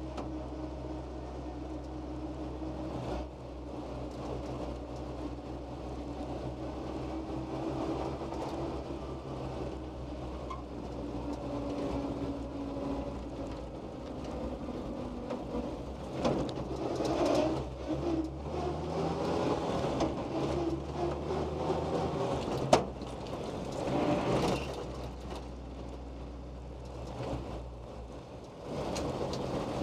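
1946 Dodge WFA-32 truck's 236 cubic inch flathead six running under way, its pitch rising and falling as it picks up and loses speed. A single sharp click comes about two thirds of the way through.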